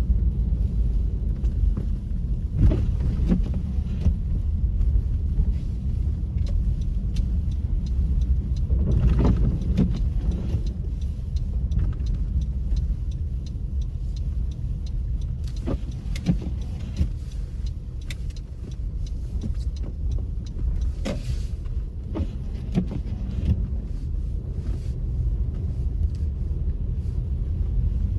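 Car driving on a snowy road, heard from inside the cabin: a steady low rumble of engine and tyres, with scattered short knocks and clicks.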